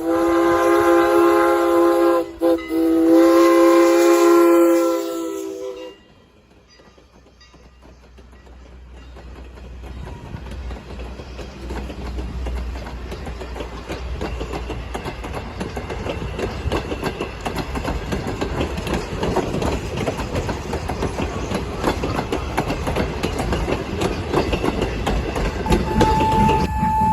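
A steam locomotive's chime whistle sounding several notes at once, in a blast that breaks briefly and then sounds again for about three more seconds before cutting off abruptly. Then the rumble and clickety-clack of a train's wheels on the rails, building steadily louder.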